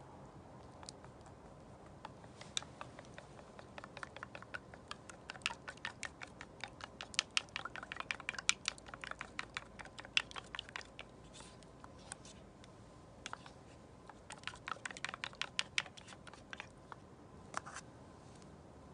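Chopsticks clicking and tapping quickly against a dish in irregular runs, typical of stirring egg into rice or eating from the bowl.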